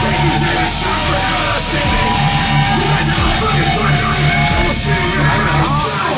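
Live heavy rock band playing loud with electric guitar and yelled vocals.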